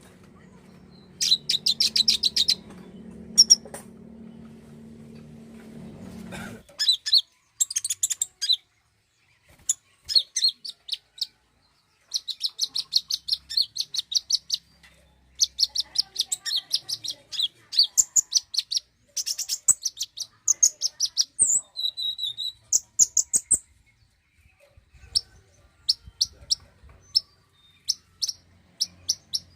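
Konin (sunbird) song: rapid high-pitched chirping trills repeated in short bursts with brief pauses, used as a lure call to set another konin singing. A low hum runs under the first few seconds and cuts off suddenly.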